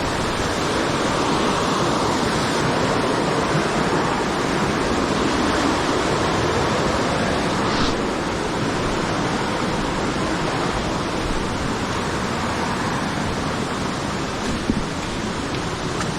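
Steady rushing of flowing river water, an even roar with no break.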